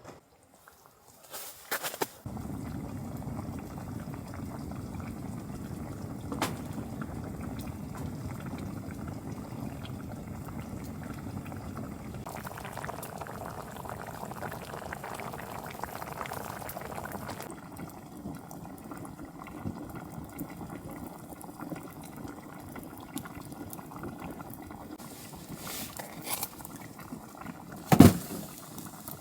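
Water boiling with a steady bubbling, louder for a few seconds in the middle. A few clicks sound near the start, and a sharp knock near the end is the loudest sound.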